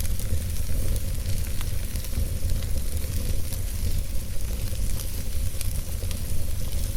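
Wood fire burning in a fireplace: a steady hiss and low rumble of flame, with frequent small crackles and pops from the burning logs.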